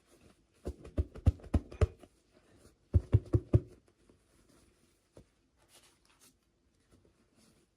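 Hands handling small plastic toy pieces or packaging: a quick run of taps and clicks, a second shorter run about a second later, then a single click.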